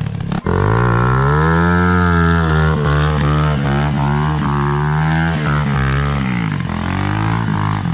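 Dirt bike engine revved hard about half a second in and held at high revs for several seconds, then dropping back near the end, as in a burnout.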